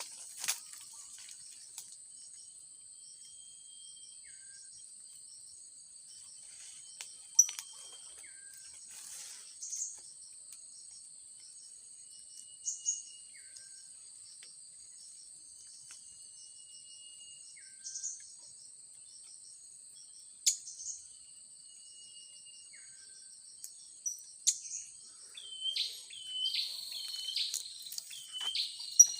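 A steady high trilling of insects, with a falling whistled bird note repeated about every five seconds. Near the end comes a run of sharp, high bird chirps.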